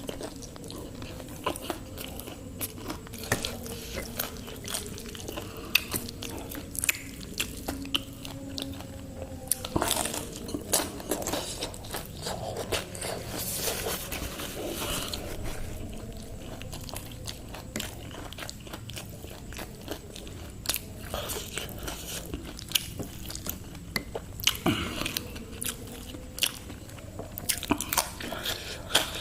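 Close-up crunching bites and chewing of crispy spicy fried chicken, with irregular sharp crackles as the crust breaks.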